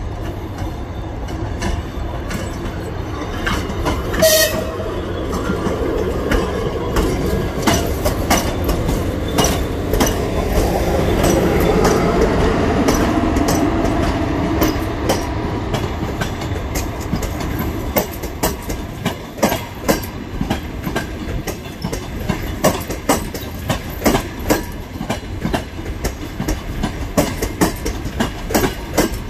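Electric train rolling through the station, wheels clicking over rail joints in a rhythm that grows more regular toward the end, with a rumble that swells and fades in the middle. A brief horn blast sounds about four seconds in.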